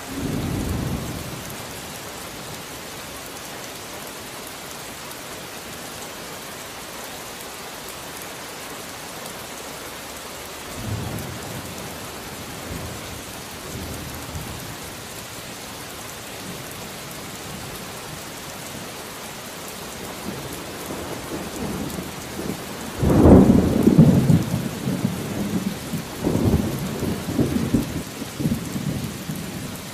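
Steady rain with rolling thunder. A short rumble comes at the start and a fainter one about eleven seconds in. A long, loud peal builds about two-thirds of the way through and rolls on in waves until near the end.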